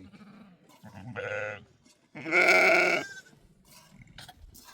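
Livestock bleating: a shorter call about a second in, then a loud, longer bleat around two seconds in.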